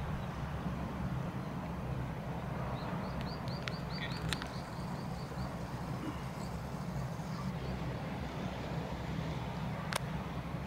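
Steady low outdoor rumble, with a bird giving a quick run of about a dozen short high chirps about three seconds in, and a few sharp clicks.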